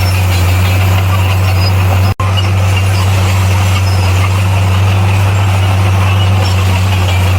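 Heavy earthmoving machine's diesel engine running at a steady, unchanging speed, a loud low drone; the sound drops out for an instant about two seconds in.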